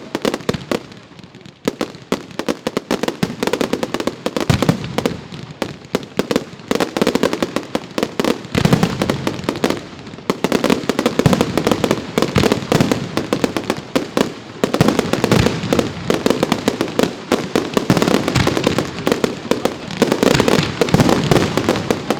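Professional fireworks display going off: a dense stream of rapid cracks and bangs, thinner at first and packed solid from about a third of the way in.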